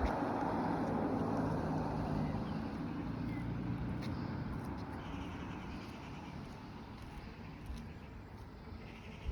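A passing road vehicle, its engine and tyre noise loudest at first and slowly fading as it moves away.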